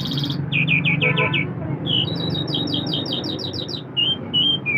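A lark singing a varied song of quick, repeated chirps, with a fast run of about a dozen notes in the middle, over a steady low hum.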